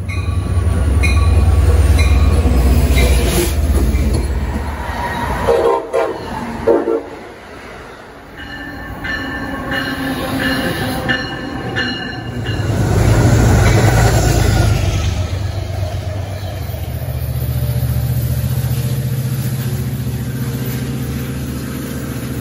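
Passenger trains at station platforms: a diesel-electric locomotive running with a heavy low hum, a train horn sounding in the middle, and the rumble of passing cars.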